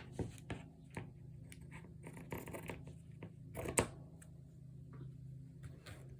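Hands folding and handling fabric over a notebook cover: quiet, scattered rustles and light taps, with one sharper click a little under four seconds in, over a faint steady hum.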